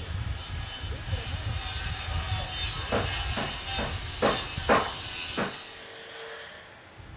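Construction-site noise: a steady hiss over a rumble, with a run of about seven sharp knocks, roughly three a second, in the middle.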